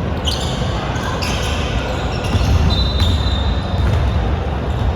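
Basketball game sounds in a gym: a ball bouncing on the court, with short sharp sounds now and then over a steady low rumble of the hall.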